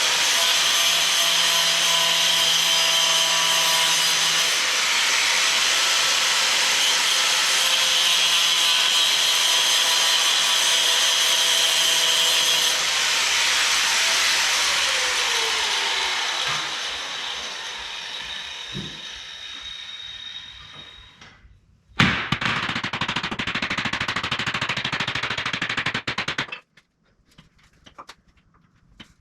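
Power tool working on wood. A long run of about twenty seconds fades away gradually with a falling tone. A second run starts sharply and stops abruptly after about four seconds.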